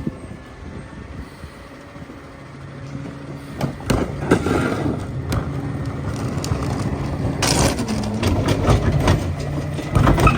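Heil PowerTrak rear-loader garbage truck packing heavy trash: its CNG engine runs up under the packer's hydraulic load with a steady hum, while the trash cracks and snaps as the blade crushes it. A short hiss comes about seven seconds in, and the whole gets louder toward the end.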